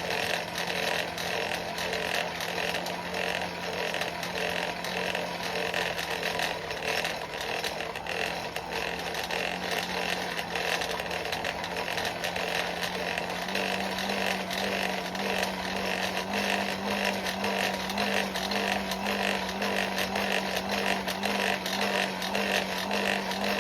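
Coal forge's electric air blower running steadily, driving the fire to bring a chain link up to welding heat. Its hum steps slightly higher a little over halfway through.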